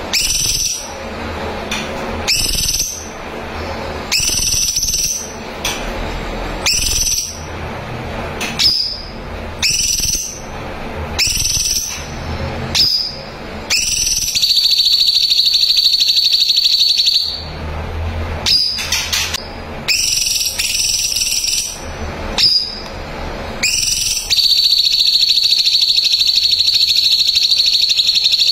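Cucak cungkok songbird singing: a run of short, clear whistled calls about one a second, then a long rapid trill held for about three seconds, more short calls, and another long even trill near the end.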